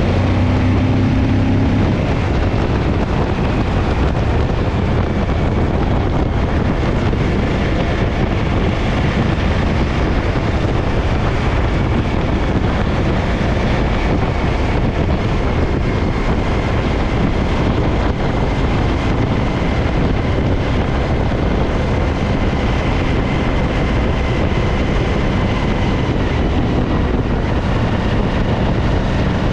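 Suzuki DL1000 V-Strom's V-twin engine running while the motorcycle is ridden, heavily buffeted by wind noise on the microphone. The bike has a rear-cylinder misfire.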